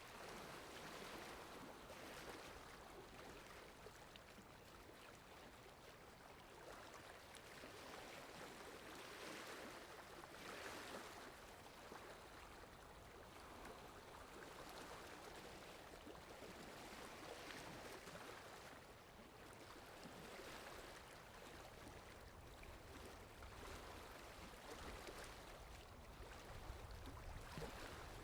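Faint ambient water sound effect: steady flowing water with soft swells every couple of seconds.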